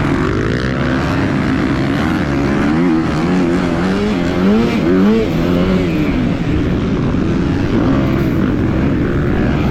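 250-class motocross bike engine revving hard, its pitch rising and falling again and again with throttle and gear changes, with a few quick steep climbs in revs near the middle.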